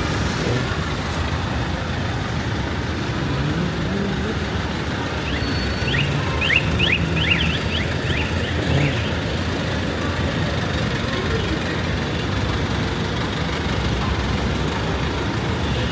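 Street traffic: vehicle engines running steadily with a low rumble, and a cluster of short high chirps about six seconds in.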